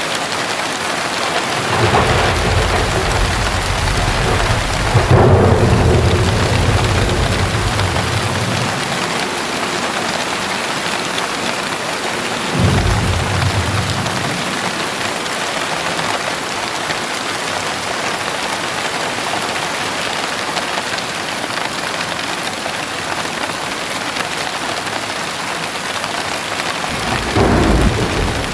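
Heavy rain falling steadily, with thunder rumbling three times: a long roll in the first several seconds that peaks about five seconds in, a shorter one about halfway, and a brief one near the end.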